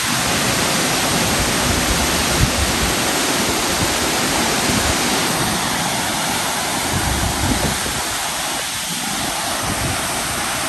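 Burude Falls waterfall: a steady, loud rush of falling water, with some irregular low rumbling mixed in.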